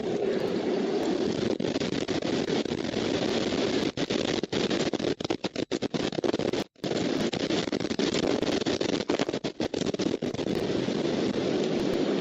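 Steady rushing noise picked up by an outdoor nest-cam microphone, cut by several brief dropouts around the middle.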